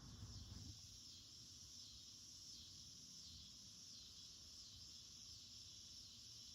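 Cicada chorus: a faint, steady high-pitched drone without breaks.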